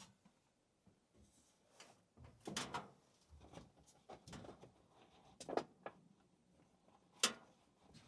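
A scattering of short knocks and rustles, as of things being handled; the sharpest knock comes about seven seconds in.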